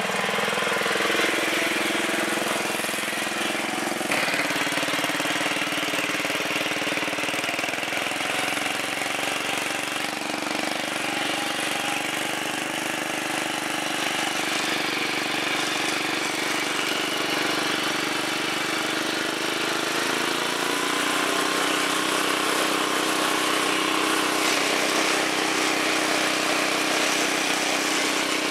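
MTD lawn tractor's Briggs & Stratton engine running steadily as the tractor is driven, its pitch shifting slightly about four seconds in and stepping up about twenty seconds in.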